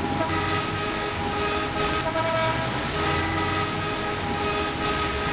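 Train horn sounding a steady chord of several tones over the rumble of a moving train.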